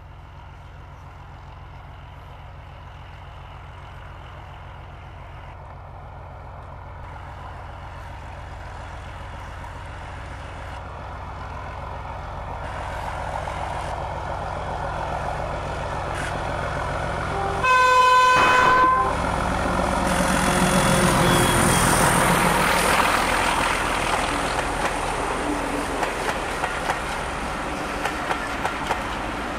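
Heritage passenger train with a diesel locomotive leading: its engine rumble grows steadily louder as it approaches, then a single horn blast of about a second. The train then passes close with a loud rush, and near the end the wheels click regularly over rail joints as the carriages go by.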